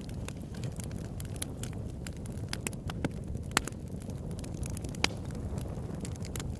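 Campfire burning: wood crackling steadily with frequent sharp snaps and a couple of louder pops, over a low steady rumble.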